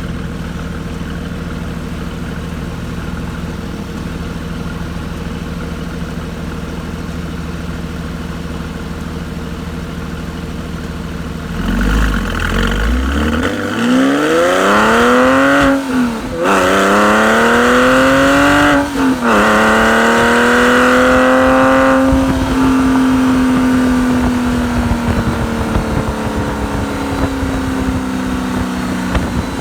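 Modified exhaust of a Porsche 997.1 Carrera S 3.8-litre flat-six, with Fabspeed headers, modified mufflers, high-flow cats and a centre exit, heard right at the tailpipes. It runs steadily at low revs, then about twelve seconds in it accelerates hard, the note climbing through two gear changes. It then settles into a steady, slowly falling cruise.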